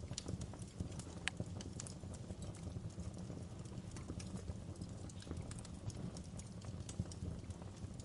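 Wood fire crackling in a fireplace: irregular sharp snaps and pops over a steady low rumble of the burning fire, with a couple of louder snaps, one just over a second in and one near the end.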